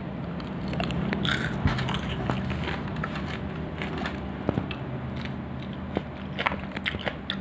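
Close-up biting and chewing of crispy battered fried chicken: irregular crunches, crackles and mouth smacks, over a steady low hum.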